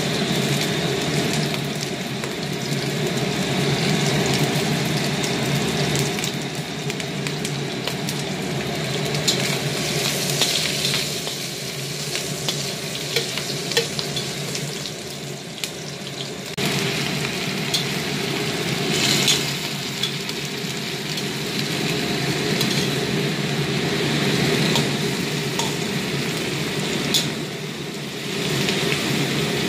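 Pieces of preserved dried pork sizzling steadily in hot oil in a wok, with scattered sharp clicks of a metal spatula against the pan. Later, chopped cabbage sizzles as it is stir-fried in the pork fat.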